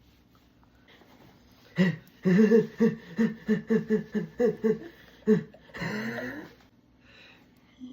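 A person laughing in a quick run of short pitched pulses, about three to four a second, followed by a breathier drawn-out vocal sound that slides in pitch.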